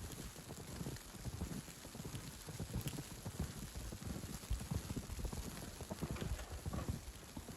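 Footsteps in snow at a steady walking pace, about two steps a second, over a soft even hiss.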